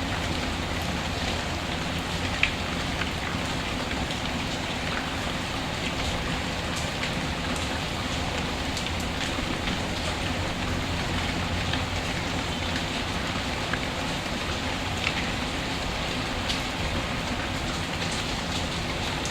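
Steady rain mixed with a crackling wood fire: an even wash of rain with scattered small pops, and one sharper pop about two and a half seconds in.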